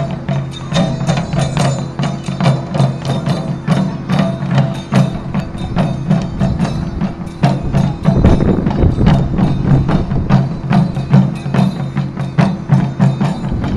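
Taiko drum ensemble playing a fast, dense rhythm of strokes with sharp wooden clicks among them; heavier, deeper drum strokes come in about eight seconds in.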